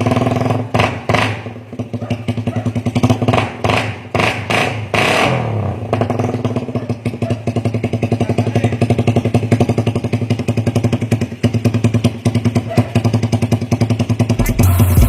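Small motorcycle engine through an open Aun 'bulate' titanium aftermarket exhaust: quick throttle blips over the first few seconds, one rev dropping back about five seconds in, then a steady idle with an even exhaust pulse. Music comes in just before the end.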